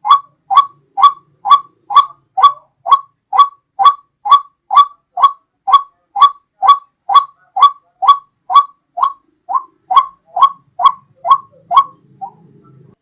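White-breasted waterhen (ruak-ruak) call used as a hunting lure: a loud, evenly repeated short note, about two a second, that stops about twelve seconds in.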